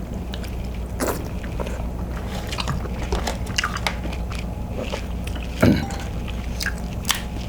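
Close-up eating of butter-sauced king crab meat: wet chewing and smacking with short lip and mouth clicks, and one louder smack a little after the midpoint.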